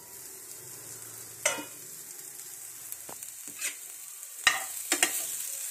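Bitter gourd and potato frying in oil in an uncovered pan: a steady sizzle that starts as the steel lid comes off, broken by several sharp metal clinks, the loudest about four and a half seconds in.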